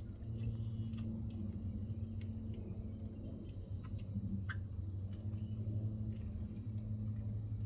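Backyard ambience: a steady high-pitched insect drone over a low steady hum, with a few faint short chips, the clearest about four and a half seconds in.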